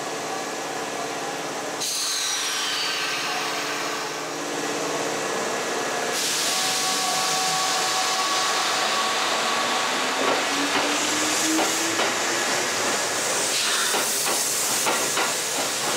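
Kintetsu limited express electric train running past along a station platform: a steady rush of wheel and air noise with a faint whine that rises in pitch a little past the middle. Rapid clattering clicks from the wheels come near the end.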